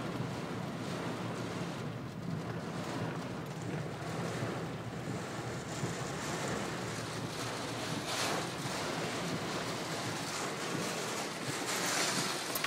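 Rainstorm noise: a steady rushing with wind buffeting the microphone, swelling briefly about eight seconds in and again near the end.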